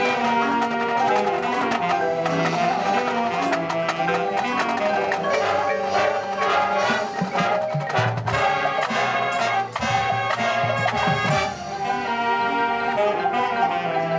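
Marching band playing: brass sustaining chords over drumline percussion, with strikes throughout.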